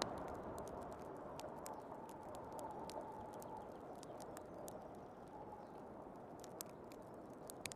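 Crackling log fire, with many sharp, irregular pops and snaps, over the steady rush of a heavy snowstorm's wind.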